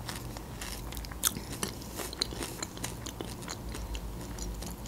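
Close-miked chewing of a spoonful of cream of broccoli soup with crunchy croutons: scattered soft crunches and wet mouth clicks, a few of them sharper.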